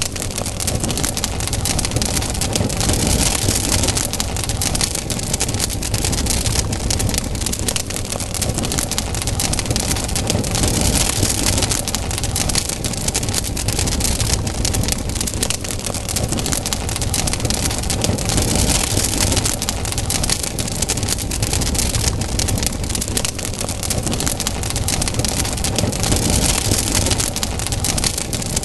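Wood campfire burning, a steady hiss with dense crackling and popping throughout.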